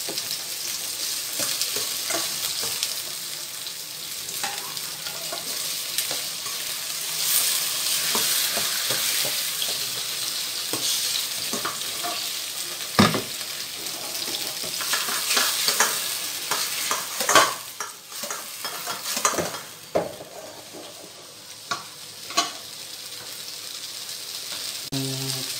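Sliced onions and tomatoes sizzling in a hot stainless steel wok while a metal spatula stirs them, scraping and clinking against the pan with now and then a sharp knock.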